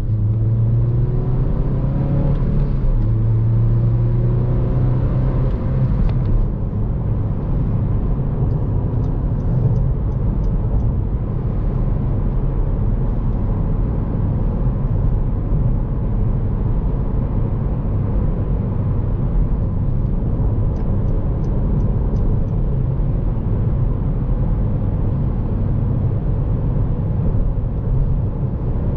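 2014 Honda Civic Si's four-cylinder engine and road noise heard from inside the car: the engine note climbs under acceleration in the first few seconds, then settles into a steady rumble while cruising. A few faint ticks come through twice.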